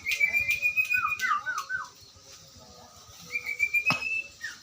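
Songbird singing: a held, whistled high note laced with sharp ticks, then four quick falling notes; after a pause, a second held high note. A single sharp click sounds just before the end.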